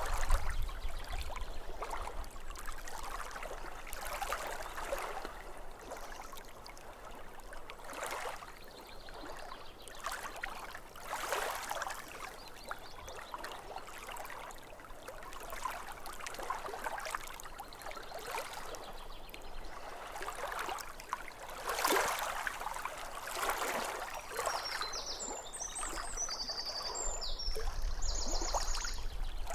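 Small waves lapping and splashing at a lake shore, in irregular surges every second or two. A bird sings a short burst of high chirps near the end.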